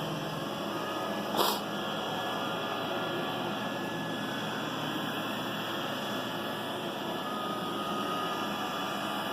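iRobot Roomba 960 robot vacuum running on carpet, a steady whirring hiss from its vacuum motor and brushes, with one short sound about a second and a half in.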